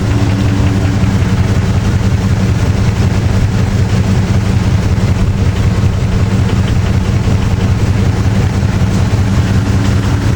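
Dodge Ram pickup engine idling steadily, an even low hum, with its leaking head gasket just dosed with Blue Devil sealer.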